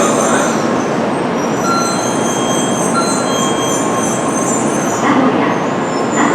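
Tokaido Shinkansen train moving along the platform: a steady, loud rushing run of wheel and motor noise, with a few brief thin tones in the middle.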